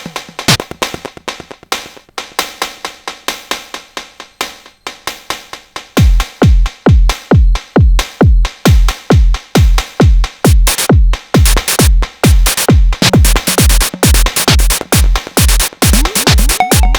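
Sonic Potions LXR-02 digital drum machine playing a techno pattern: clicky percussion alone at first, then about six seconds in a punchy kick with a falling pitch drops in on a steady four-on-the-floor beat of about two kicks a second. From about eleven seconds the hi-hats grow brighter and busier.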